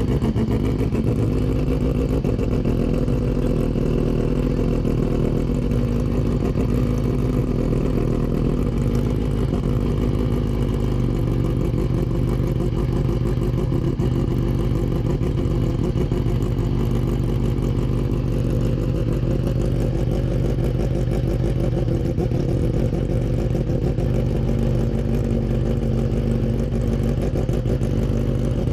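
Mazda RX-792P race car's rotary engine running at a steady, held engine speed. The pitch shifts to another steady level about eleven seconds in and changes again late on.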